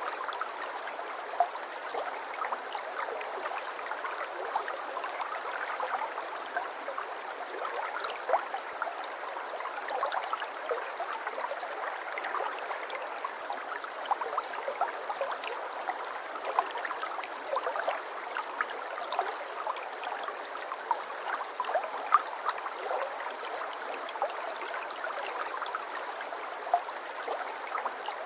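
Babbling brook: shallow water running and gurgling over stones in a steady stream, full of small splashes and trickles.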